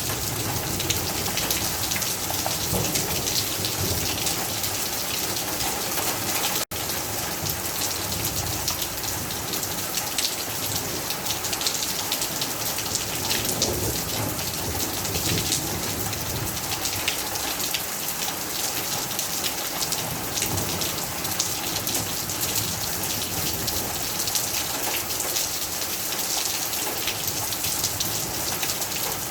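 Rain falling steadily, a dense patter of drops hitting surfaces. The sound cuts out for an instant about seven seconds in.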